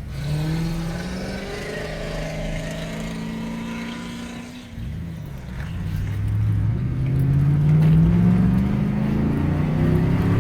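A car engine running steadily, easing off about halfway through, then revving up with a rising pitch and growing louder.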